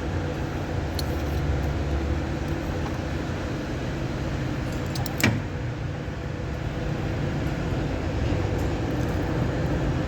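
Isuzu MU-X diesel engine running steadily, with a single sharp click about halfway through.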